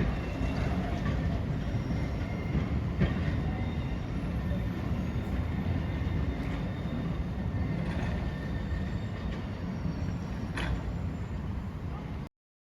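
A train rolling along the rails with a steady low rumble, a few sharp wheel clicks over rail joints and faint wheel squeal. It cuts off suddenly near the end.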